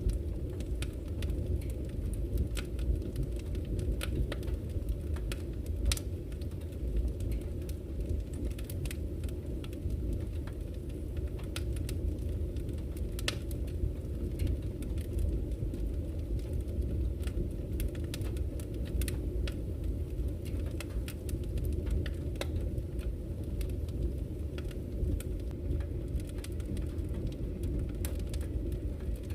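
Wood campfire crackling, with frequent sharp irregular pops and snaps over a steady low rush that fits flowing river water.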